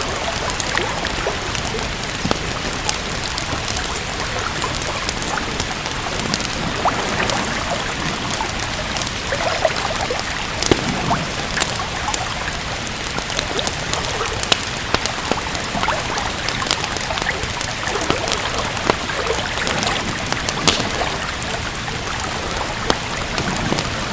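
Steady rain with frequent sharp crackles and pops from a wood fire.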